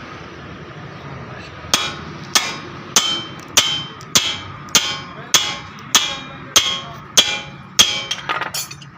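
Hammer blows on metal: about a dozen evenly spaced strikes, roughly one every 0.6 seconds and each with a short ring, starting a couple of seconds in. This fits work on the car's lower-arm ball joint.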